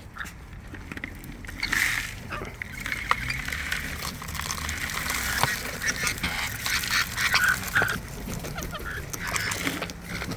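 Wild parrots squawking and chattering close by while feeding on seed, with scattered short clicks of beaks pecking.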